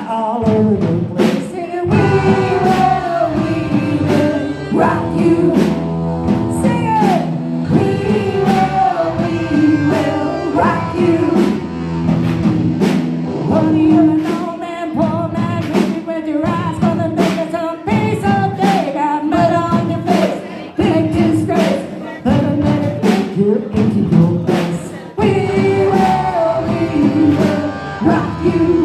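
Live rock band playing at full volume: regular drum-kit hits under held chords and a bending lead melody line.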